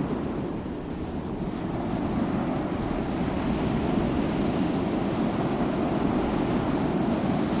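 Sea waves breaking and washing on a shore, a continuous surf hiss that swells and eases slightly, with some wind noise on the microphone.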